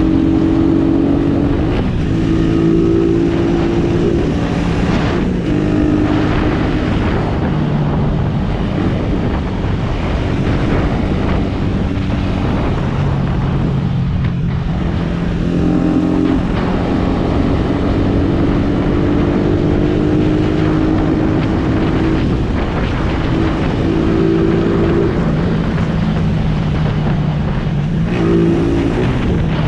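Suzuki Raider R150 motorcycle's single-cylinder engine running under way, the revs climbing and dropping again and again as it accelerates and shifts through the gears, over steady wind and road noise.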